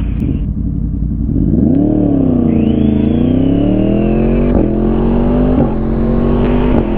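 Motorcycle engine revving up and accelerating hard: the pitch rises sharply about a second and a half in, drops back, then climbs steadily, broken three times by brief dips as it shifts up through the gears. Wind rumble runs underneath.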